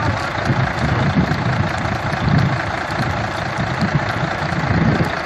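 A vehicle engine running steadily, with a rushing noise over it; it begins abruptly.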